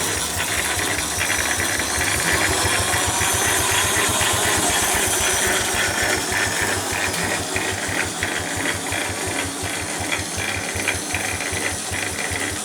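Third-scale Case 65 hp steam engine running on compressed air instead of steam, its cylinder exhausting in a quick, even beat with a mechanical rattle from the moving gear.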